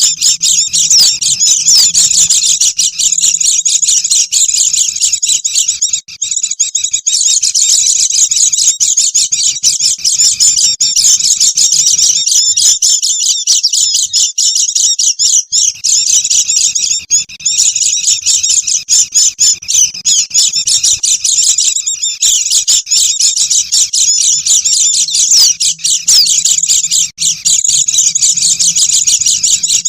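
A noisy flock of white-eyes (pleci) twittering all together: a dense, unbroken stream of fast, high chirps that thins briefly a couple of times.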